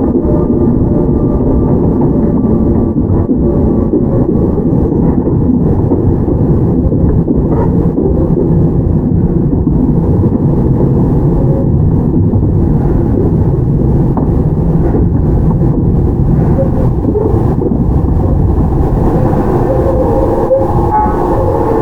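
Interior running sound of a Toyama Chihō Railway 17480-series field-chopper electric car (ex-Tokyu 8090) running along the line: a continuous low rumble of wheels on rail and running gear, with faint higher tones appearing near the end.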